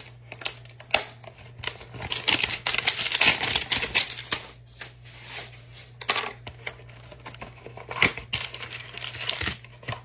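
A Mosaic football trading-card hanger box is torn open by hand: cardboard ripping and the plastic wrap rustling, with clicks and scrapes as the cards are handled. The rustling is thickest a couple of seconds in and again near the end.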